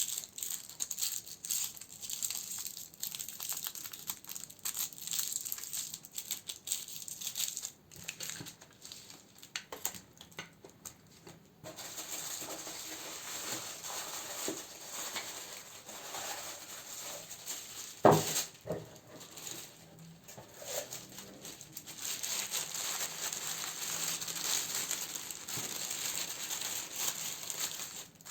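Plastic and paper packaging crinkling and rustling as candles are handled and sorted, with many small clicks and taps. A single sharp knock about two-thirds of the way through.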